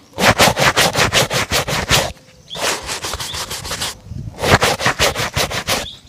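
Quick back-and-forth rubbing strokes on a shoe during a shoe shine, about five strokes a second, in two fast runs with a slower, quieter stretch between.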